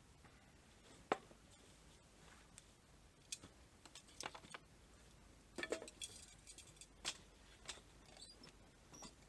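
A few faint, scattered clicks and light taps against a near-quiet background, with a small cluster of them about halfway through.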